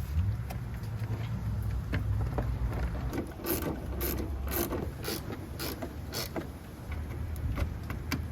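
Sharp mechanical clicks from hand work on car parts, about two a second for a few seconds midway, over low handling noise.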